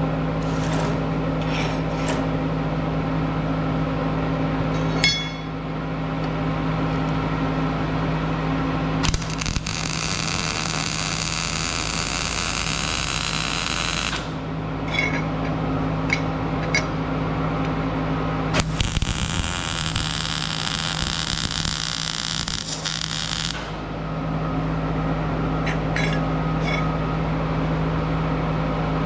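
Welding on the snowblower's skid shoes: two runs of arc-welding crackle about five seconds each, starting about nine seconds in and again near nineteen seconds. A steady electrical hum runs throughout, with a few short clicks between the runs.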